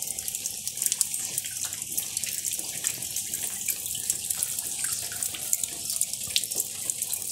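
Steady rain falling, with many single drops heard close by.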